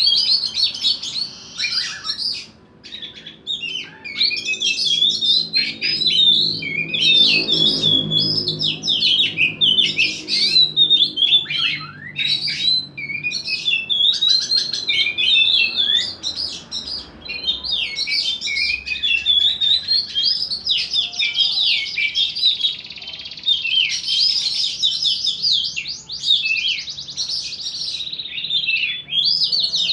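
Caged contest songbirds singing non-stop in fast, varied chirps and trills, two birds singing against each other in a test of their nerve for competition.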